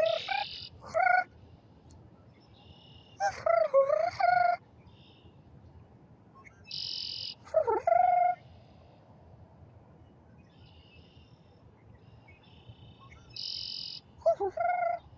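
Red-winged blackbirds calling and singing in repeated bouts every few seconds. Some songs end in a short buzzy, high trill.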